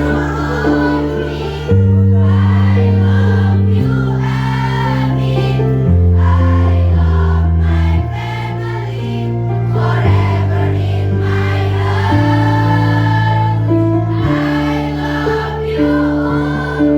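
Choir singing over an instrumental accompaniment whose sustained bass notes change about every two seconds.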